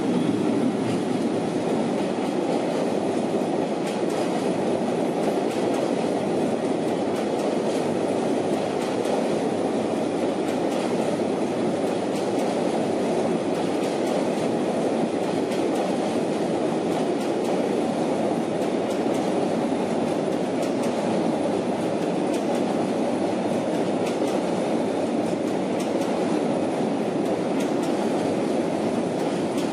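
Freight train of Taki 1000 tank cars rolling past at close range, a steady rumble of steel wheels on rail with faint clacks over the joints.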